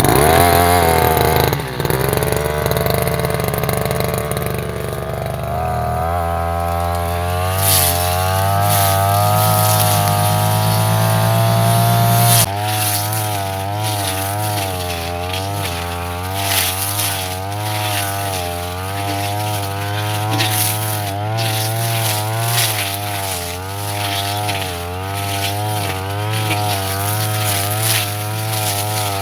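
Brush cutter's small petrol engine running at high revs. It climbs steadily in pitch for about twelve seconds, drops suddenly, then keeps rising and falling as the load on the cutting head changes while it works through thick grass.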